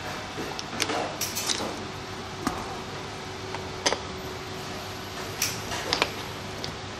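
Scattered light clicks and taps from parts being handled during hands-on work on the machine's cooler assembly. They fall irregularly, a few at a time, over a steady low hum and hiss.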